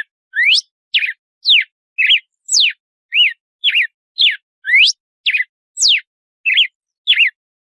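Red-cowled cardinal (galo-de-campina) singing its 'açoite' style song: a fast run of short, clear whistled notes, about two a second, mixing rising sweeps, falling sweeps and wavering notes.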